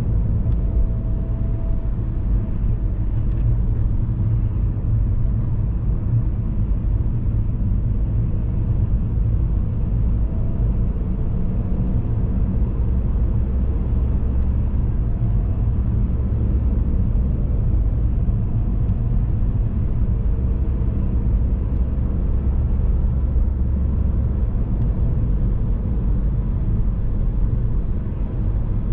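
Car driving at steady speed: a constant low rumble of road and engine noise, with faint humming tones above it.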